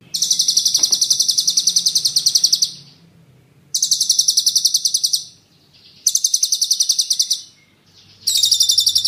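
A songbird's fast rolling trill ('ngeroll'), about ten sharp high notes a second, given four times in bursts of one to two and a half seconds; the last is cut off at the end.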